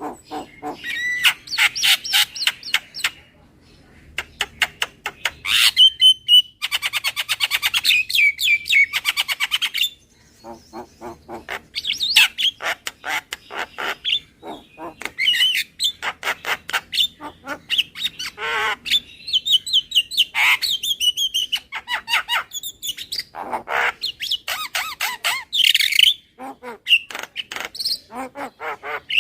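Javan myna calling, a lure call: rapid runs of clicking chatter mixed with harsh squawks and short whistled notes, in bursts with brief pauses.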